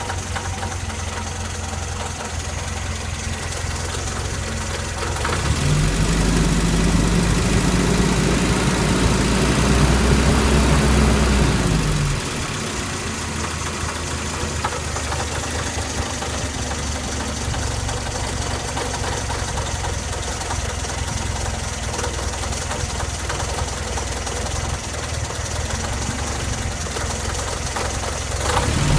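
Car engine running with a knock: idling, then held at higher revs for about six seconds with the pitch slowly climbing, then dropping back to idle.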